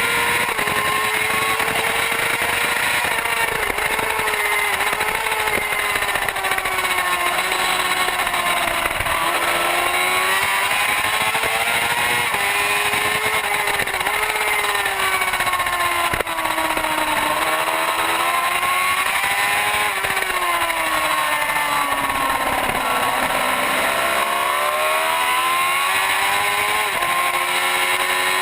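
Racing superbike engine at high revs, its pitch climbing through the gears and dropping away several times as the rider shuts off and downshifts for corners.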